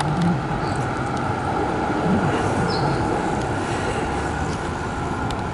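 Electric tram running along a city street, a steady rumble of wheels and motors over street traffic.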